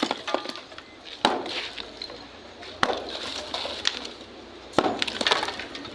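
About four heavy blows breaking up masonry, each a sharp crack followed by a brief clatter of falling debris, spaced roughly one and a half to two seconds apart.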